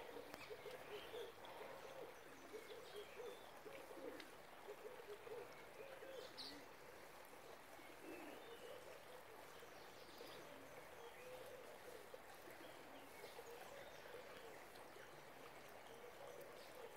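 Near silence with faint birds calling: soft, low, repeated cooing notes and an occasional higher chirp.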